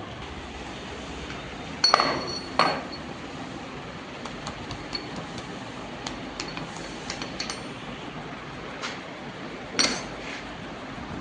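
Metal parts or tools clinking and knocking against metal: three sharp ringing strikes, two about two seconds in and one near the end, with lighter ticks between, over a steady workshop noise.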